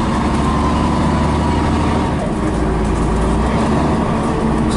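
Scania BR111H bus engine running steadily under way: a low, even drone with a faint high whine on top.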